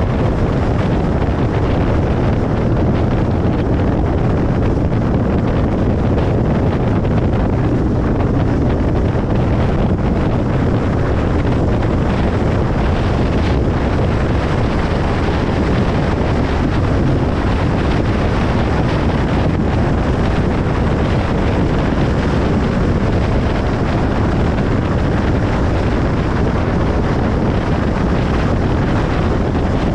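Steady road noise of a car moving along a highway: an even rush of tyres and wind at a constant loud level, with most of the sound low down and no changes.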